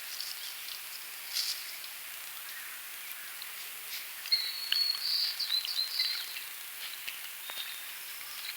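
A songbird sings a short phrase of a held high whistle followed by quick trills, about four seconds in, with a single brief chirp earlier. A steady high hiss of outdoor background runs underneath.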